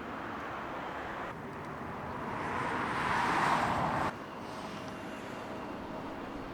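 Jet airliner engines swelling in loudness to a peak, then cutting off suddenly about four seconds in, leaving a steadier distant rumble of airport jet noise.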